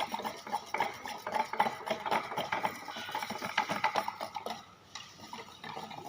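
Paint being stirred in a container: a quick run of small clinks and scrapes that thins out after about four seconds.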